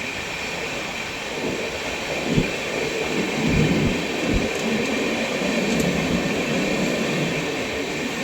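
Passenger express train running along the track: a steady rumble of wheels on rails with a thin steady whine, and a few heavy thuds from the wheels crossing rail joints in the middle.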